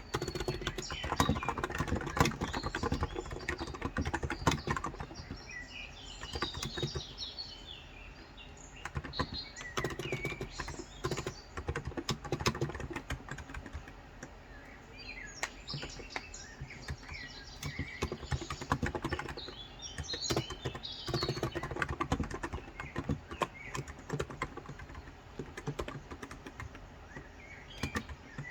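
Steady typing in bursts on a Cox Endeavor electrocapacitive (contactless) tenkeyless keyboard with 35 g switches, with short lulls between runs of keystrokes. Birds chirp in the background several times.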